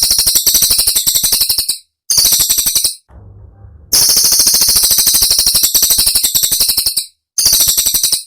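Cililin song on a bird-training recording: very high, rapid machine-gun-like trills of sharp notes (the "tembakan" that trainers want copied), in four phrases of about one to three seconds separated by short, abrupt breaks.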